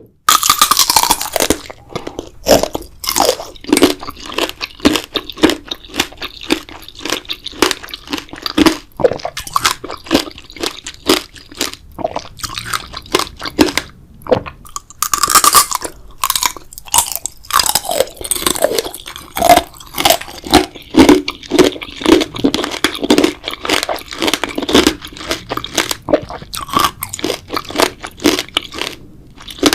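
Close-miked mouth sounds of a person biting and chewing a grape jelly dessert for ASMR. Dense, irregular sharp clicks and wet smacks begin abruptly at the start, with louder bites near the start and about halfway through.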